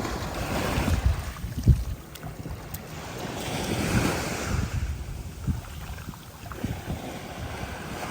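Sea waves washing up on the shore in two surges, with wind buffeting the microphone.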